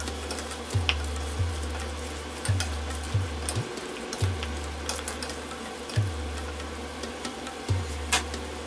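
Chicken masala sizzling in an aluminium pressure cooker as a wooden spatula stirs and scrapes through it, with a few sharp taps of the spatula on the pot. Background music with a low pulsing beat plays under it.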